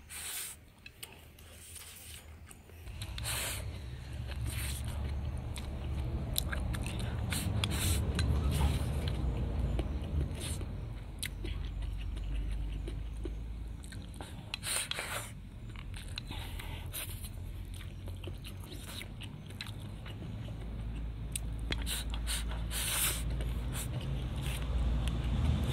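A person biting and chewing stir-fried pork large intestine with rice at close range, with many short sharp clicks of chopsticks against the bowl, over a steady low rumble.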